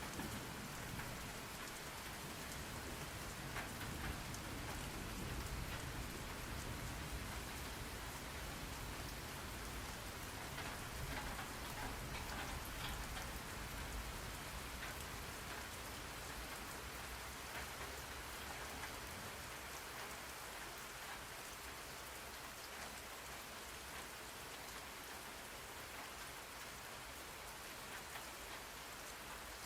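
Steady rain falling on a surface, with scattered distinct drops over the even hiss. A low rumble underneath in the first half fades away.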